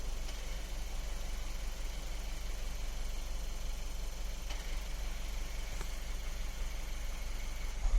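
Seat Leon MK3 1.4 TSI four-cylinder turbo petrol engine idling steadily, with a constant low drone and a few faint clicks.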